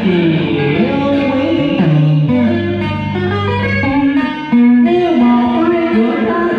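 Guitar playing a melodic passage with sliding, bent notes, in the style of cải lương and đờn ca tài tử accompaniment.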